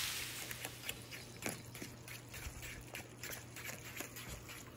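Faint, irregular wet clicks and rustles of someone eating noodles by hand from a plastic takeout tray, over a steady low hum.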